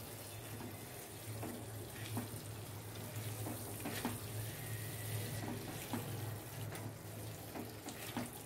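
Paneer and masala sizzling gently in a metal kadai while a silicone spatula stirs them, with a few soft scrapes and knocks of the spatula against the pan.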